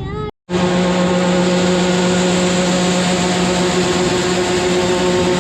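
Steady mechanical drone with a strong constant hum and an even rushing noise over it, starting abruptly after a brief dropout about half a second in.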